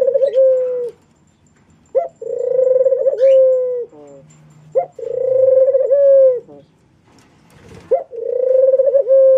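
Pigeon cooing: a run of long, wavering coos, each opening with a short sharp note and dropping in pitch at the end, repeated about every three seconds.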